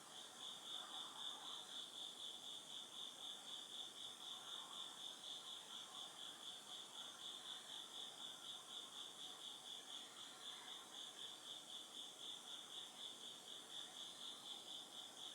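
A single autumn insect singing a steady high-pitched chirping trill, pulsing evenly about four to five times a second, faint over a quiet background.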